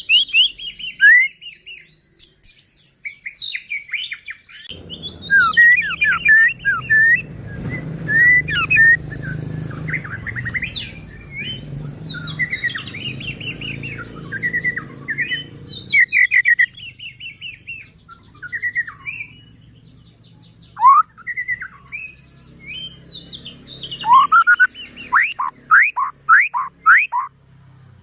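White-rumped shama (murai batu) singing a varied, continuous run of whistled phrases that slide up and down, ending with a series of quick rising whistles.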